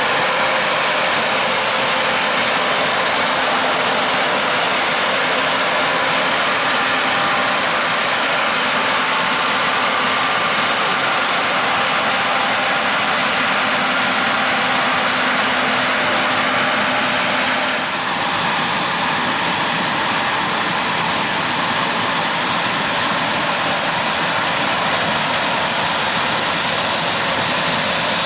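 Combine harvesters and tractors running steadily in a corn field: a dense, even machinery noise with no single rhythm. The sound changes abruptly about two-thirds of the way through.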